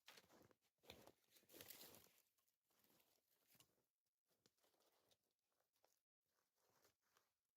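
Near silence with faint, irregular rustling and crunching, a little stronger for a second or so near the start.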